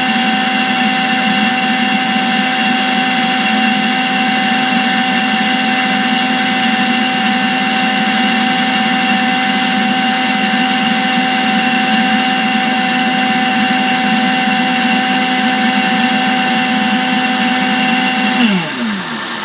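Secondary air injection pump on a 2005 Toyota Tundra 4.7 V8 running after a cold start, with a loud, steady blower whine. Near the end it shuts off and spins down with a falling pitch, leaving the engine idling. This is the cold-start pump noise that goes away after about a minute.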